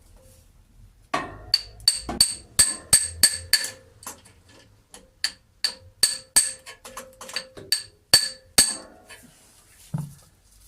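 Repeated sharp metal-on-metal strikes, about twenty in irregular succession, each ringing with the same metallic note. A steel spanner is being knocked on a tight nut of the 1939 Hillman Minx side-valve engine.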